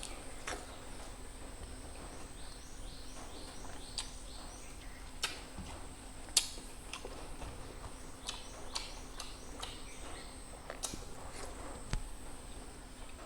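A bird calling in runs of short rising chirps, about three a second, over a steady background with a thin high whine. Scattered sharp clicks and taps sound throughout, the loudest about six seconds in.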